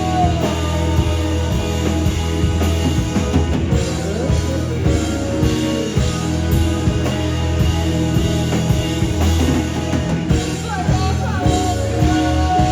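A rock band playing live: drum kit hits over sustained bass and guitar notes, with a few gliding notes near the start and end.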